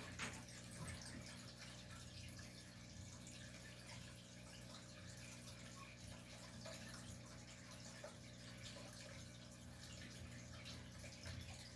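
Faint trickling and dripping of water at a fish tank, like an aquarium filter's return, over a steady low hum, with a few soft clicks about a second in.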